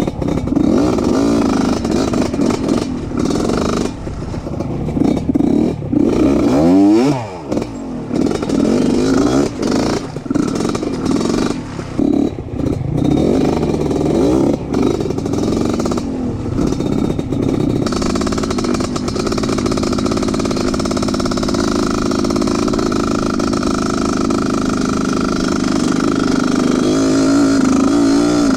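Trail motorcycle engine running and revving unevenly, its pitch rising and falling, with repeated rattling knocks over the first two-thirds. It settles into a steadier drone for the last third.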